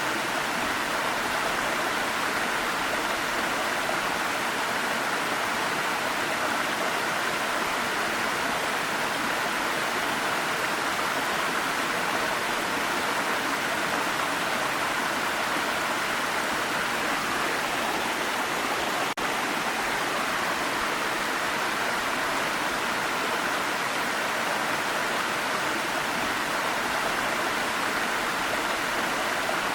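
Waterfall: falling water rushing steadily, an even unbroken roar with no change in level.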